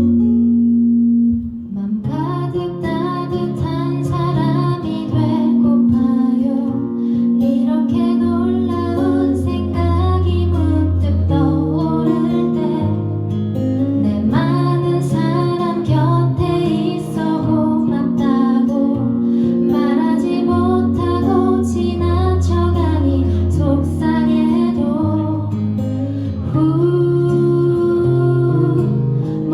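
Acoustic guitar playing a slow song, with a voice singing the melody over it. A held chord fades briefly about a second and a half in before the playing picks up again.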